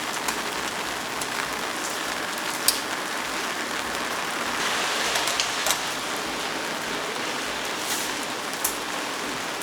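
Steady hiss of rain, with a few faint sharp taps scattered through it.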